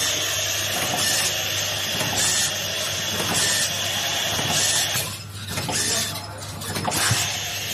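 Mini200 PVA pod-making machine running, a steady low mechanical hum under hiss, with a hiss that swells about once a second as the machine cycles.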